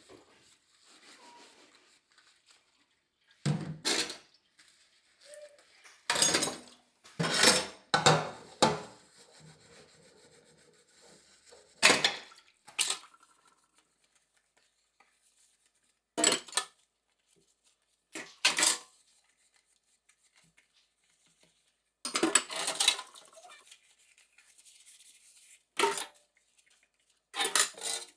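Dishes and cutlery clinking and clattering in short separate bursts, about a dozen over the stretch with quiet gaps between them.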